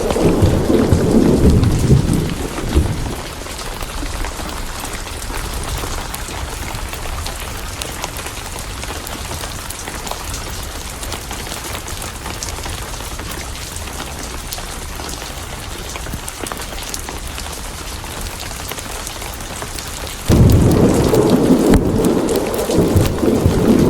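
Steady rain falling, with thunder rumbling. One roll of thunder dies away over the first few seconds, and a new one starts suddenly about twenty seconds in and carries on.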